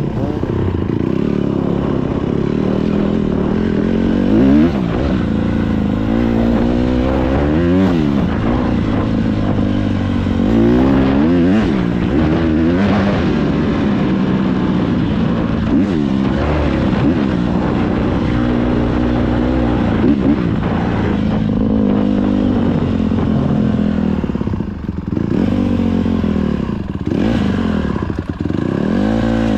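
Dirt bike engine being ridden, revving up and falling back over and over as the throttle is worked.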